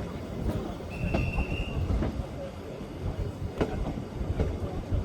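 A train running on the track: a steady low rumble with scattered sharp wheel clicks, and a short high squeal about a second in.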